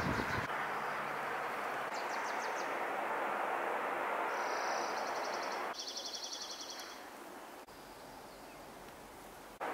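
A small songbird singing short, fast high trills, three times, over a steady rushing outdoor noise.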